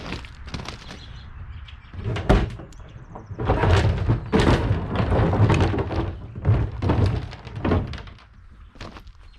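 Knocks and thuds on the porta-potty's hard plastic: a sharp knock, then a run of loud, rough bursts of banging and scraping.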